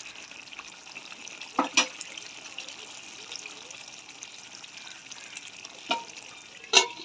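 Mutton curry sizzling and bubbling in a pot as it is fried down in its oil, a steady crackling hiss. There are a few sharp knocks: two close together about one and a half seconds in, the loudest, and two more near the end.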